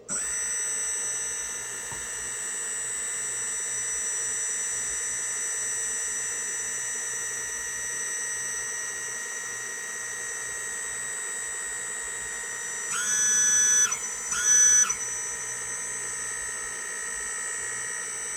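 Hydraulic pump of a 1/14 scale RC dump truck running with a steady high-pitched whine, which twice briefly rises in pitch and gets louder about two-thirds of the way through.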